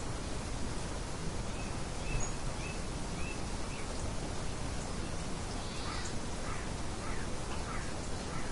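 Steady hiss of light wind with small birds chirping: a run of short chirps in the first half and another run near the end.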